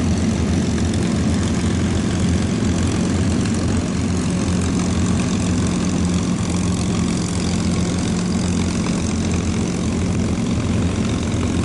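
P-51 Mustang fighters in flight, their Packard Merlin V-12 engines and propellers making a steady, even low hum.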